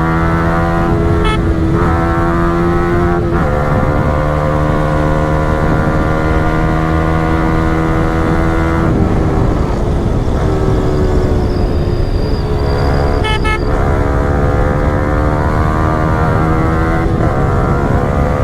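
Yamaha R15 V4's 155 cc single-cylinder engine through a full-system Yoshimura Alpha exhaust, running at steady cruising revs. The engine note dips briefly and changes pitch a few times, around 1, 3, 9 and 13 seconds in.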